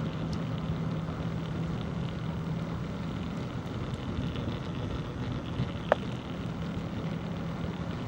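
Outdoor ride sound: a steady low hum over a rushing haze of wind and rolling noise, with the hum easing for a moment midway, and a single sharp click a little before six seconds in.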